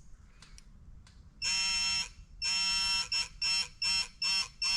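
GearWrench electronic torque wrench beeping as it nears its set torque. It gives two long beeps, then quicker beeps about three a second. The wrench starts this warning at about 28 ft-lb, before the 32 ft-lb target is reached.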